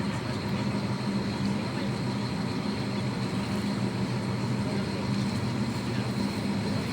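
Tour catamaran's engines running steadily at cruising speed: a constant low drone, with a thin steady high whine above it.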